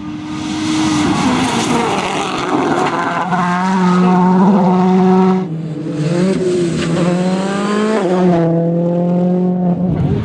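World Rally Car's turbocharged four-cylinder engine at full throttle, its note climbing in pitch, dropping sharply about halfway through at a gear change or lift, climbing again and then holding steady before cutting off suddenly near the end.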